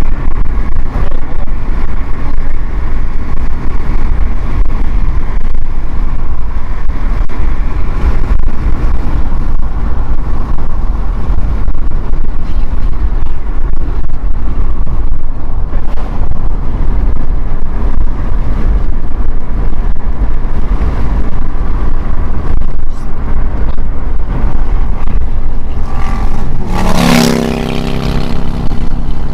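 Strong wind buffeting the microphone: a loud, steady low rumble and roar. Near the end, a brief pitched sound with several overtones rises over it for about two seconds.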